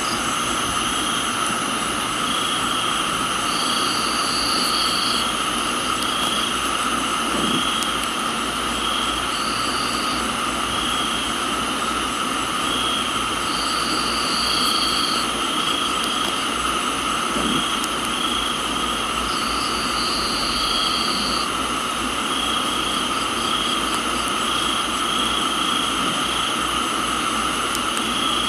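Tropical garden crickets and other insects trilling in a steady chorus at several pitches, with a short chirp repeating about once a second and a higher trill that comes and goes every few seconds, over a constant hiss of rain.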